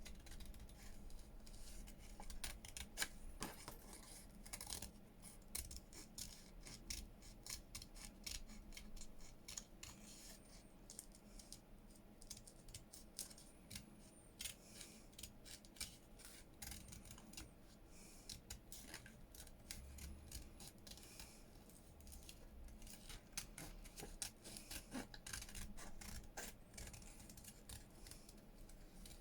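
Small scissors snipping paper in many quick, irregular little cuts while trimming closely around the outline of a printed image.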